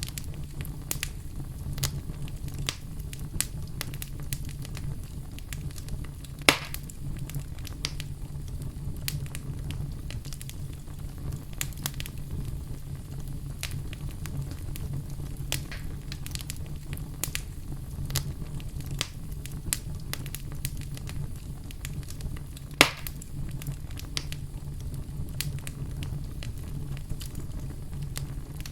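Wood fire burning in a fireplace: a steady low rumble with frequent small crackles and two sharper pops, a few seconds in and about two-thirds of the way through.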